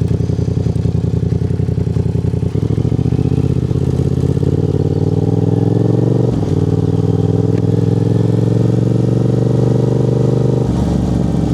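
Yamaha motorcycle engine running at low revs with an even pulse, then pulling away, its pitch climbing steadily with a brief dip about six seconds in.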